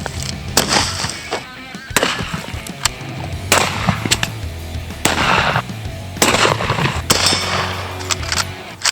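About six gunshots, one every second or so, each followed by a short echo, over background music with a steady bass.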